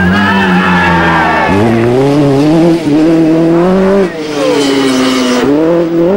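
Lancia 037 rally car's supercharged four-cylinder engine under hard driving. The revs climb and fall, with sharp drops at gear changes about a second and a half, four and five and a half seconds in.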